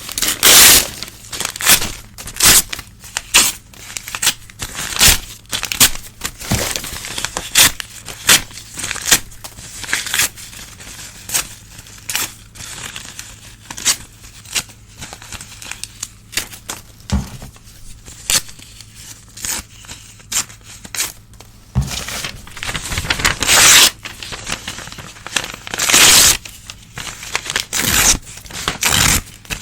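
Old newspaper being torn by hand in a run of short irregular rips, several longer and louder tears among them, with some crinkling of the paper.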